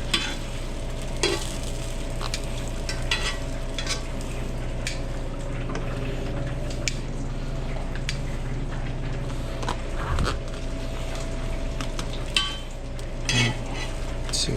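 Food frying and sizzling in a busy kitchen, with scattered clicks and clatter of utensils and pans over a steady hum of kitchen equipment.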